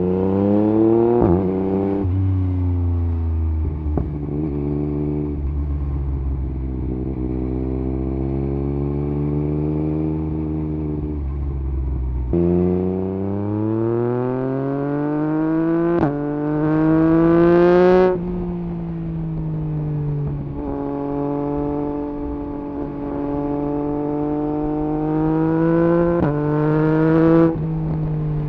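2021 Yamaha MT-09 SP's inline-three engine through an Akrapovič exhaust with the dB killer removed, running under way. It pulls hard several times, rising in pitch through the revs and dropping sharply at each upshift or throttle close, with stretches of steady cruising in between.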